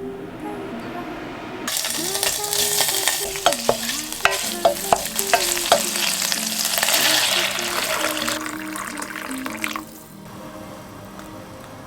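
Food frying and sizzling in a hot pan, starting about two seconds in and stopping near the end, while it is stirred, with a quick run of utensil clicks against the pan in the middle.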